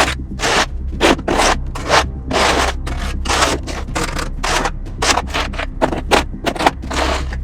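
Snow shovel scraping snow off pavement in quick repeated strokes, about two to three a second.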